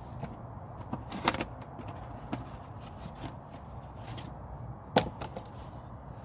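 A few scattered sharp clicks and knocks of tools and parts being handled around a car's fuel filter. There is a small cluster about a second in and the loudest single knock about five seconds in, over a low steady hum.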